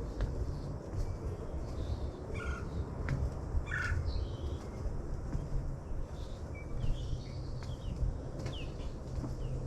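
Birds chirping and calling in woodland, with short scattered chirps throughout and one louder, harsher call about four seconds in, over a steady low rumble.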